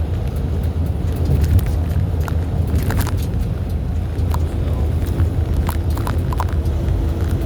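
Steady low engine and road rumble of a moving truck heard from inside the cab, with small rattles and clicks scattered through it.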